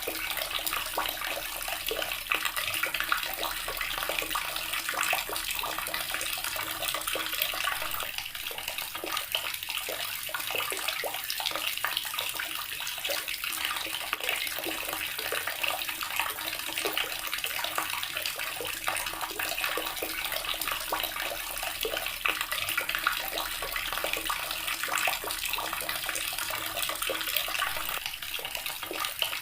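Water tap running steadily, its stream splashing into a basin below.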